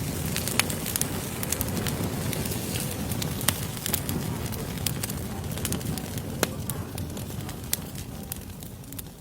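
Wood fire burning in an open fireplace: a steady low rumble of flames with irregular sharp crackles and snaps from the burning logs.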